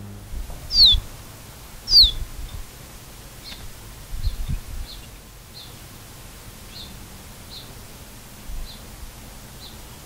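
A bird calling: two loud whistled notes, each sliding down in pitch, about a second apart. After them comes a run of fainter short high chirps roughly once a second, with a brief low rumble about four seconds in.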